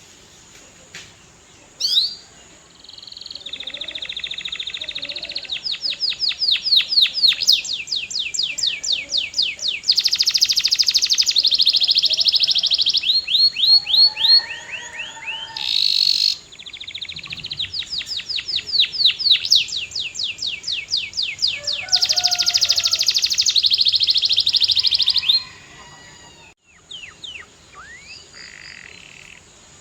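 Canary singing: two long song phrases of fast trills and rapidly repeated high sweeping notes, each lasting about ten seconds, with a few short chirps before and after.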